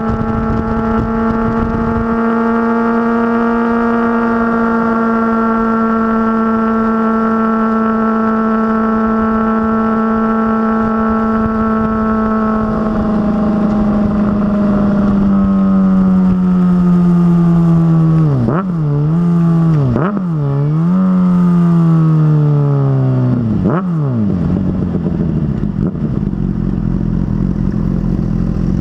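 Motorcycle engine holding a steady speed, then falling in pitch as it slows, with a few quick rises in revs as it shifts down, settling to a low idle near the end.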